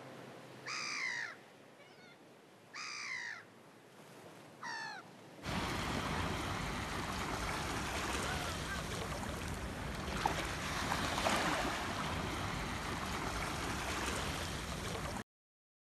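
A bird giving three harsh, falling caw-like calls a second or two apart. About five seconds in, a steady wash of surf takes over and cuts off suddenly near the end.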